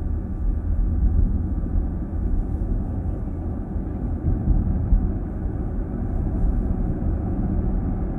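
Steady, deep road and tyre rumble heard inside a moving car's cabin, with no distinct events.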